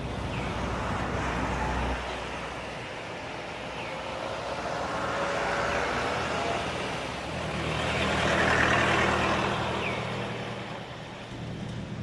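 Road traffic: motor vehicles driving past, the noise swelling and fading twice, loudest about six and nine seconds in, over a low steady engine hum.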